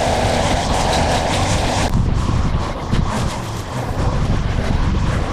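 Engine of outdoor mowing equipment running steadily under load. About two seconds in, the sound changes abruptly as the higher hum drops away.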